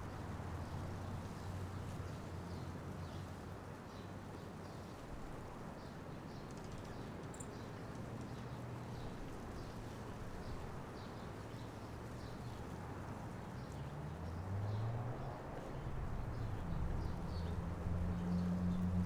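Outdoor ambience at a bird feeder: a steady low hum of distant traffic with many faint, short high ticks and chirps from small birds. In the last few seconds a low engine tone rises in pitch and grows louder as a vehicle comes closer.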